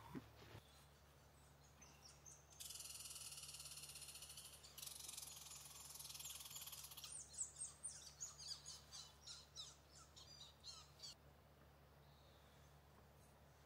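A songbird singing: a high, dense trill lasting a few seconds, then a run of separate quick notes, about two or three a second, that stops shortly after halfway. Under it runs the faint steady hum of generators.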